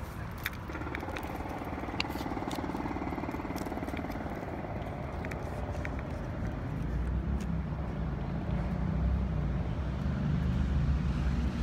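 Motor vehicle engine running close by: a steady hum in the first half, then a low rumble that grows louder over the second half, with scattered light clicks.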